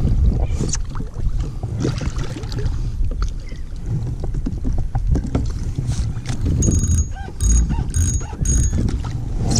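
Knocks and clicks of gear on a kayak over a steady low rumble of wind and water on the microphone. Near the end come four short high chirps about half a second apart.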